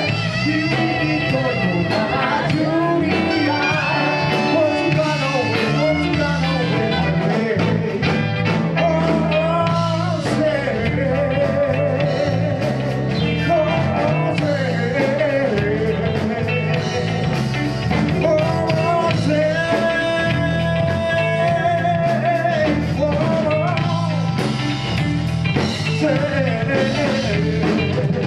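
Live band playing a rock song: a wavering lead melody over a steady, repeating bass line and drums.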